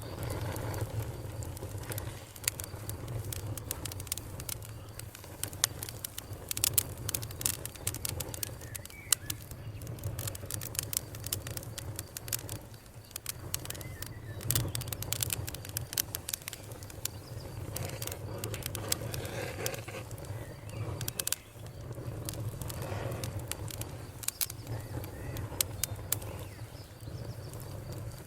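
Wood campfire crackling, with frequent sharp pops over a steady low rumble of the flames. Birds call faintly in the background.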